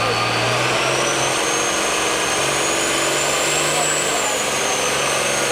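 Pulling tractor engine running steadily, with a high whine that climbs in pitch over the first few seconds and eases off slightly near the end.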